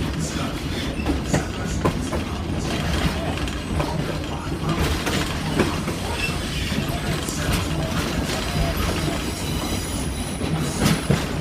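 Excursion train rolling along the track, heard from aboard: a steady low rumble with irregular clacks and knocks from the wheels and cars, and a thin, high wheel squeal near the end.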